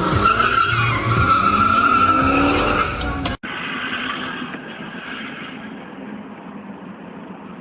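Drifting car's tyres squealing in a steady high tone over the engine revving. About a third of the way in it cuts off abruptly to a quieter, muffled rumble that slowly fades.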